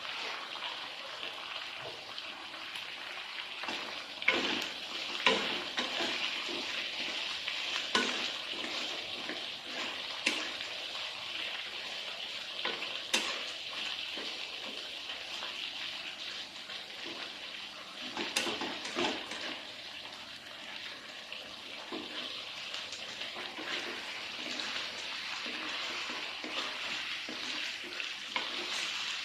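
Food sizzling in a frying pan: a steady frying hiss, stirred, with a few sharp knocks and scrapes of a utensil against the pan.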